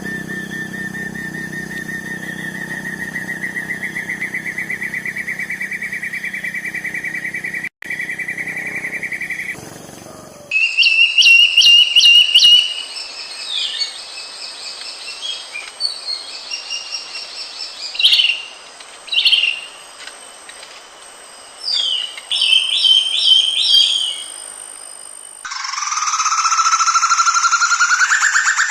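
Broadbills calling, in three cut-together recordings: a long trill rising slowly in pitch for about ten seconds, then short sharp high notes in quick groups, then near the end another rising trill, lower in pitch.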